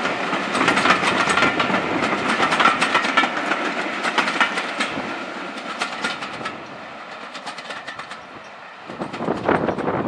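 Passenger coaches of a diesel-hauled train rolling past, their wheels clattering rapidly over the rail joints. The clatter fades as the train draws away. A rush of wind on the microphone comes in near the end.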